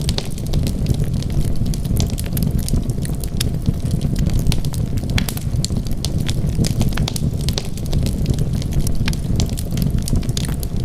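Wood fire burning: a steady low rumble of flames with frequent, irregular sharp crackles and pops of burning wood.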